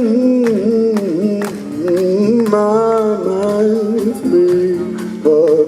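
Live blues-rock band playing, a lead melody line gliding up and down in pitch over drum hits.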